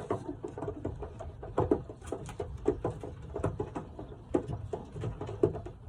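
Racing pigeons moving about the loft: irregular light taps, scuffles and patters, a few each second, in a small room.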